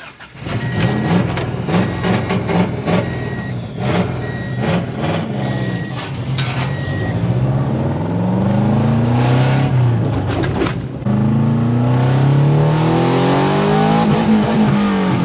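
A car's engine running and then accelerating. Its pitch rises and drops back several times from about halfway through, as it pulls through the gears. In the first half a repeating electronic warning chime beeps, with a few sharp knocks.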